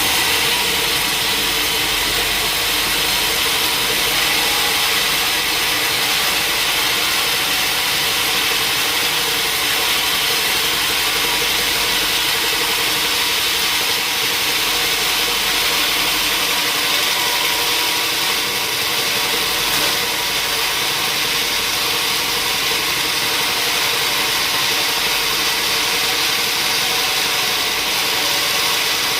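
Sawmill saw and its engine running steadily, with a constant high hiss over a faint steady hum.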